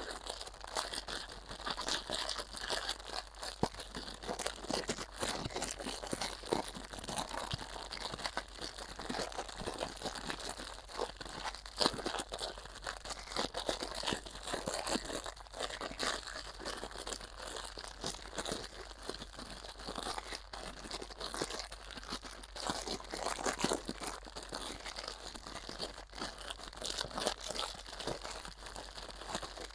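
Crinkling and crumpling of something being handled for ASMR: a dense, irregular run of small crackles.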